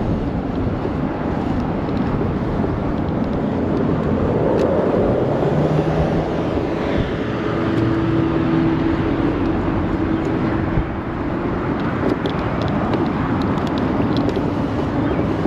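Steady wind and road noise from riding an ONYX RCR 80v electric moped in traffic. A steady hum, likely a nearby vehicle, joins for a few seconds in the middle.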